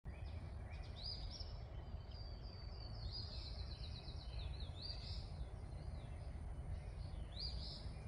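Songbirds singing in short high chirping phrases, including a quick run of repeated notes midway, over a steady low outdoor rumble.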